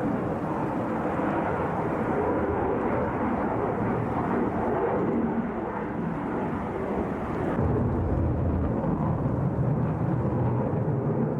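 Su-57 fighter's jet engines in flight during an airshow display, a continuous rushing noise that turns deeper and heavier about seven and a half seconds in.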